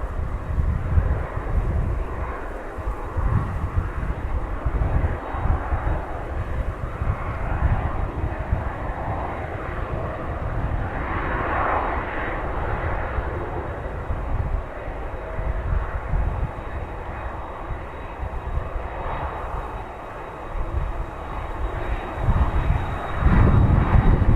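Boeing 767-300 jet engines running with a steady whine and hiss, while gusts of wind rumble on the microphone. It grows louder near the end.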